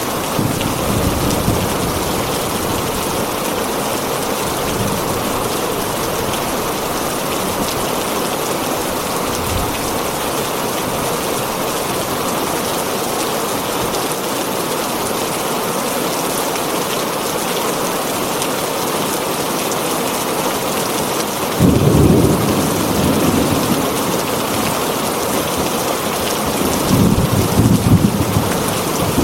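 Heavy rain falling steadily on a tin roof, with low rumbles of thunder at the start, about three-quarters of the way in, and near the end.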